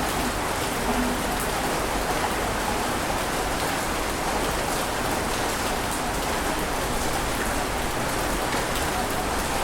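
Steady rushing water noise, even in loudness with no distinct rise and fall of breaking waves, with faint crackles in the high end.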